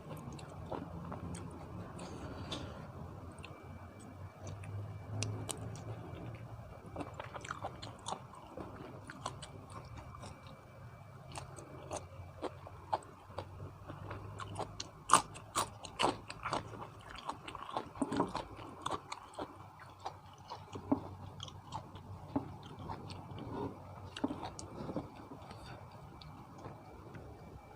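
A person chewing and biting into spicy seafood papaya salad close to the microphone: irregular wet mouth clicks and small crunches, busiest in the second half.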